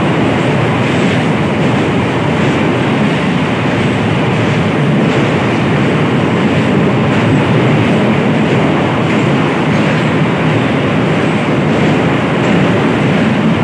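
MEMU electric passenger train running at speed over a steel truss bridge: a loud, steady rumble of wheels on rails.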